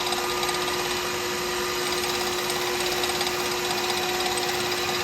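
Lathe running steadily at about 3,000 RPM with a constant hum, while a cast resin pen blank spinning on it is wet-sanded with abrasive.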